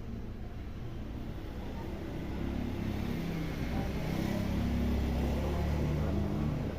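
A motor vehicle engine running, growing louder from about two seconds in and easing off near the end.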